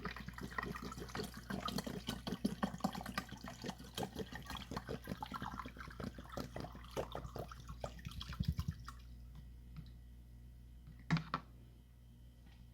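Freezer frost and ice pieces crackling and clicking rapidly for about nine seconds, then one sharp knock near the end.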